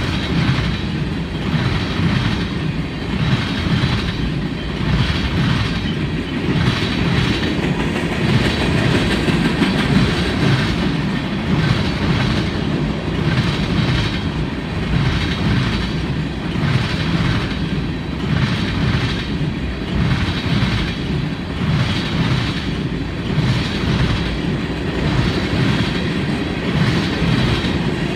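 Freight train cars rolling past on steel wheels, a continuous rumble with a regular clickety-clack as the wheels cross the rail joints.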